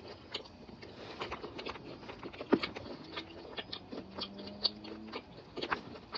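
Close-miked chewing: a run of quiet mouth clicks and smacks, several a second, with one sharper click about halfway through.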